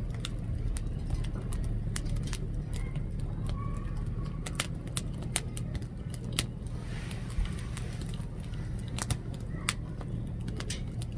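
Firewood burning in a Coleman Fireplace 3 fire pit, crackling with irregular sharp pops several times a second over a steady low hum.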